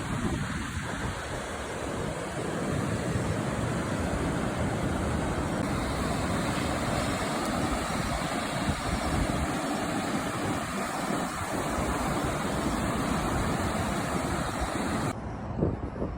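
Strong wind buffeting the microphone over a steady rushing hiss of surf, with gusty low rumbling; the hiss cuts off suddenly about a second before the end.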